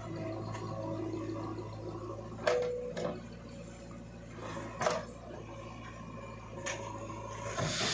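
JCB 3DX backhoe loader's diesel engine running steadily, with several sharp metallic knocks and clanks from the digging and loading work, one of them leaving a short ringing tone.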